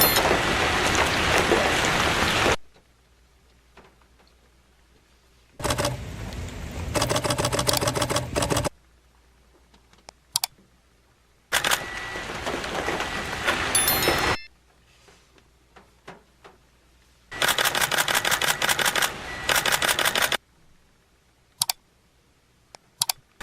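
Camera shutters firing in rapid continuous bursts, four bursts of about three seconds each with short quiet gaps between.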